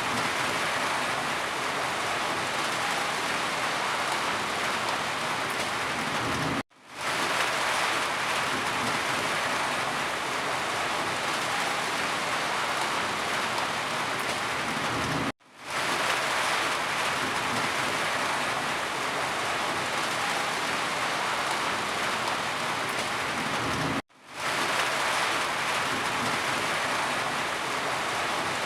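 Steady rain falling, an even hiss with no distinct drops standing out. The sound cuts out abruptly three times, about every nine seconds, and swells back within half a second each time.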